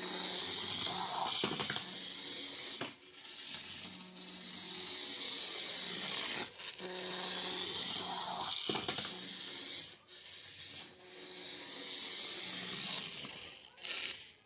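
Small electric RC car motor and gears whirring in several runs of a few seconds each, swelling and fading, with short breaks between them.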